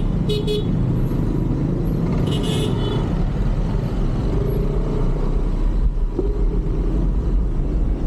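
Road traffic: motor vehicle engines running close by in a steady rumble, with two brief high-pitched sounds, one near the start and one about two and a half seconds in.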